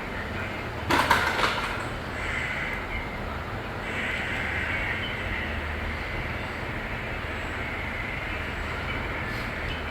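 Factory floor noise from a motorcycle engine assembly line: a steady machinery hum, with a short burst of clattering knocks about a second in.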